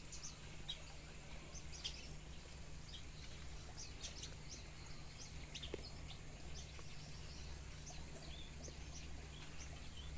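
Small birds in an aviary chirping, with many short, high chirps scattered throughout. A low, steady hum runs underneath.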